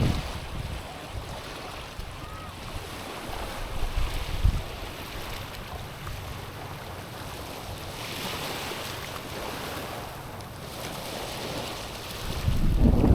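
Small waves washing over a stony, pebbly shore, a steady hiss of water that swells a little twice. Near the end a loud low rumble of wind buffeting the microphone comes in.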